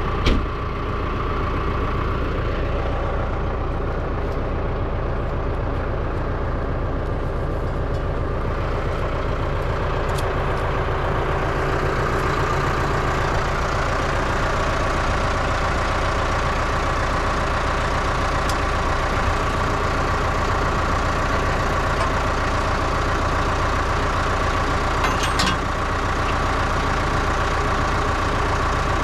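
Heavy farm machine's engine idling steadily at an even speed, with a brief knock just after the start.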